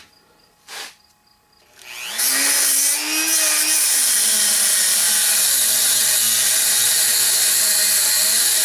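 Small handheld electric power tool switched on about two seconds in, its motor spinning up with a rising whine and then running steadily.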